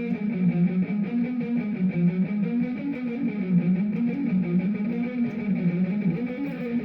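Electric guitar playing a fast alternate-picked pattern on one string, a steady stream of notes that climbs up the string and comes back down to its starting note over and over. The playing is a little bit messy.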